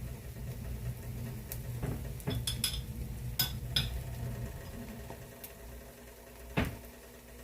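Kitchen utensils clinking and tapping against a pan and dishes: a run of light clinks a few seconds in and one louder knock near the end, over a steady low hum.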